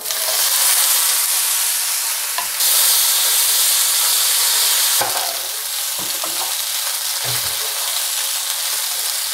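Halved gunda fruit sizzling in hot oil with mustard seeds and cumin in a nonstick frying pan, the sizzle starting suddenly as they are tipped in. A wooden spatula stirs them, with a few soft knocks against the pan about five to seven seconds in.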